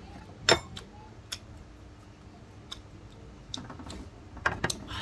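Close-up eating sounds of a person chewing crisp food: a loud crunch about half a second in, then scattered wet clicks and smacks, with a quick run of them near the end.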